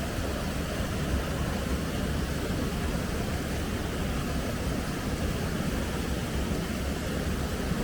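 Steady, even rushing of a flowing river, heaviest in the low end.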